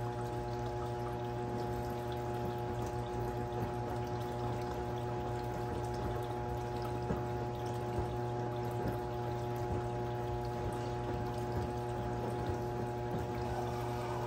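Brastemp 17 kg washing machine running mid-cycle: water pouring and flowing inside it over a steady machine hum.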